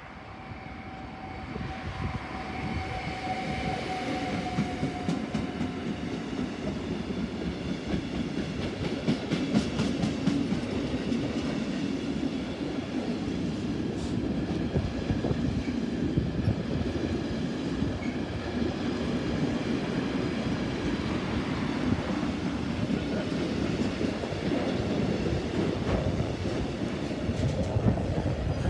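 Mixed freight train passing: a steady rumble of the wagons that builds over the first few seconds, with wheels clicking over rail joints.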